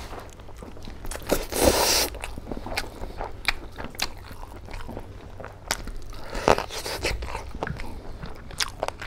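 Close-miked chewing and biting of a handful of rice and pork curry eaten by hand: wet mouth smacks and small crunchy clicks, with a louder stretch about a second and a half in.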